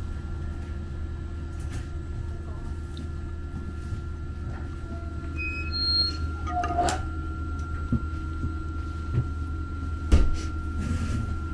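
Steady low hum inside a Muni Metro light-rail car, with a few light knocks and rattles and a louder clunk about ten seconds in.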